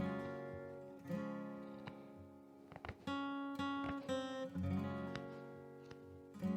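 Background music: acoustic guitar strumming chords and picking notes.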